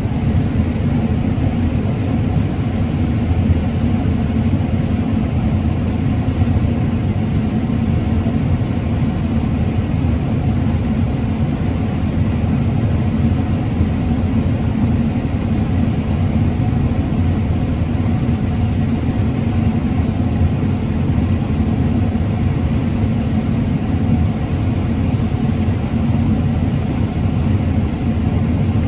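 Combine harvester running steadily under load while harvesting corn: an even, unbroken drone of engine and threshing machinery.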